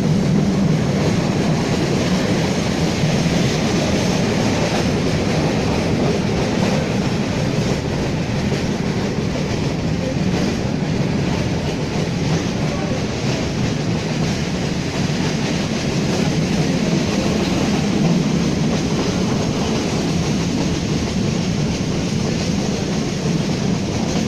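Train running along the track: a steady rumble of wheels and carriages on the rails that holds without a break.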